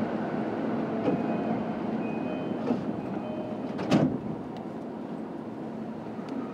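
JR East E233-5000 series electric train running: steady rumble of wheels on rail and traction equipment, with faint steady whining tones and one sharp clack about four seconds in, easing slightly in level after it.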